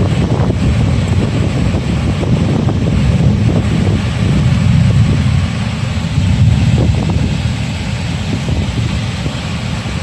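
Wind buffeting the microphone: a loud, uneven low rumble over a steady hiss.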